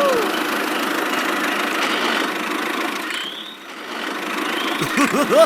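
Steady engine-like running noise that dips briefly a little past halfway, with a few quick swooping squeaks near the end.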